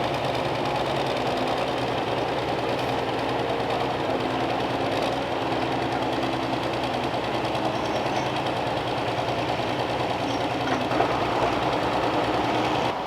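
Pulling tractor's diesel engine running hard at steady, high revs, a continuous loud mechanical drone with a rattling edge.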